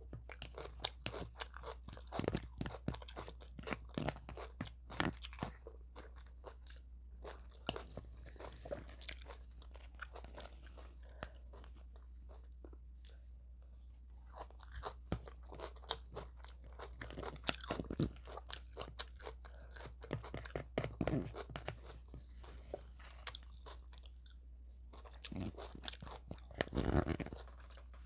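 Close-up eating: biting and chewing crispy fried chicken, with crackling crunches coming in irregular flurries and a couple of short lulls. A steady low hum lies underneath.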